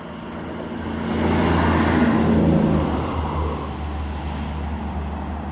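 Class 158 diesel multiple unit passing: a steady low engine hum with wheel and rail noise that builds to its loudest about two to three seconds in, then fades.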